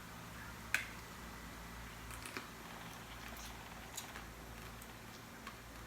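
Faint eating sounds of crab: a few small sharp clicks and cracks as the shell is broken and picked at, the sharpest about a second in, over a faint steady low hum.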